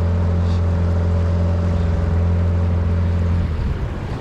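Mercury 8 hp outboard motor on a small inflatable boat running steadily under power. Near the end its note changes and drops in level as the throttle eases.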